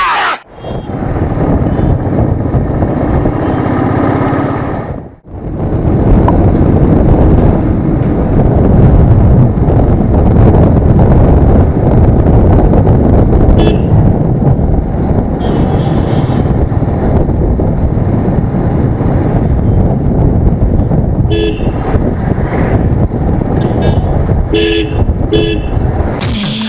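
Riding noise from a Royal Enfield Thunderbird motorcycle in city traffic: a loud, steady rumble of engine and wind that cuts out briefly about five seconds in. In the second half, vehicle horns give several short toots.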